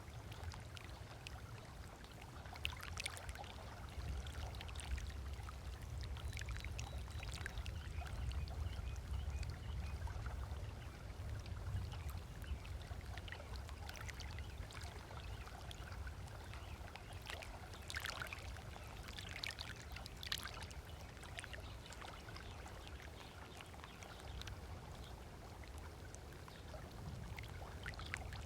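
Small waves lapping on a sandy beach shore, with irregular little splashes and trickles. A low steady rumble runs underneath.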